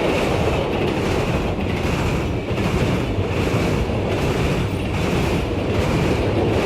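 Train passing, a steady heavy rumble of wheels and cars on the rails with no horn blowing.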